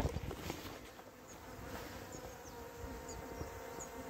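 Swarm of honeybees buzzing in a steady hum, with bees fanning at the box the swarm is being gathered into, which the beekeeper hopes means the queen is inside. A single sharp knock at the very start.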